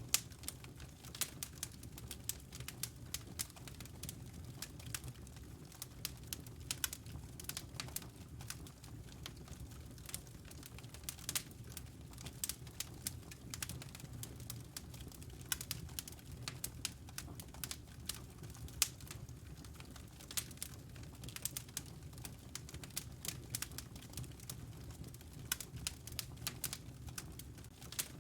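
Wood fire crackling in a fireplace: irregular pops and snaps, a few sharper and louder than the rest, over a low steady rumble.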